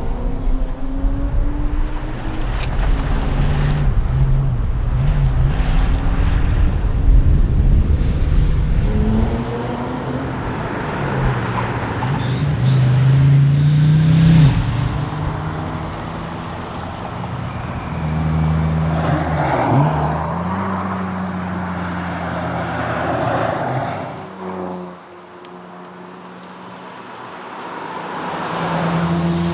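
Chevrolet Nova rally car's engine driven hard, revs climbing and falling again and again as it accelerates and changes gear. The engine note drops right down about 24 seconds in, then climbs again near the end.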